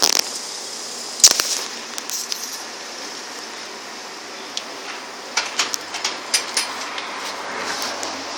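Sharp clicks and knocks over a steady background hiss: one loud knock about a second in, then a quick cluster of clicks between five and seven seconds in.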